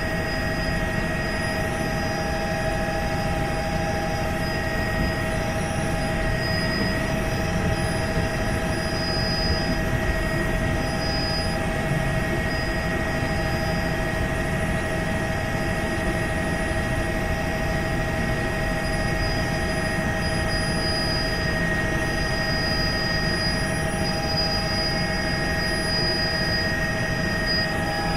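Helicopter running steadily: a constant engine and rotor drone with several high, steady whining tones on top, unchanging throughout.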